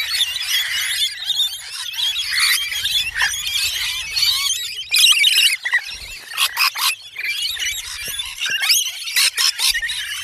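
Many small birds calling at once: a dense, continuous chatter of high, squeaky chirps and short sliding peeps, with a few sharp clicks about six to seven seconds in.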